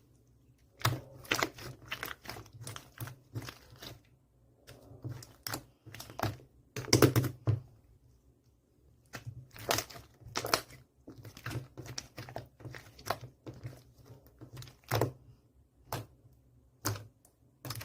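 Clear slime being squeezed and poked by hand, giving irregular crisp clicks and pops in quick clusters with short pauses between them.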